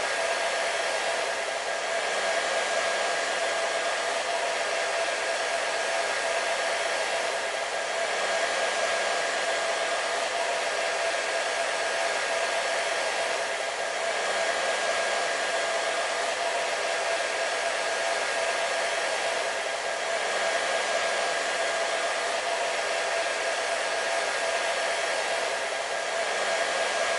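Hair dryer running continuously: a steady rush of blown air with a constant whine from its motor and fan running through it.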